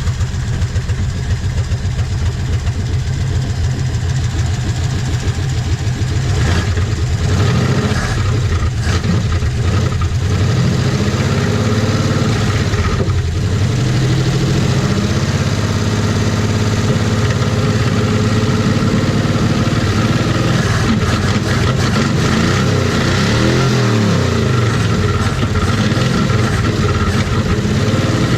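A 35-year-old Chevy engine in a 1956 Chevy 150 running, freshly brought back to life on a bypass fuel hose, idling and being revved up and down at times.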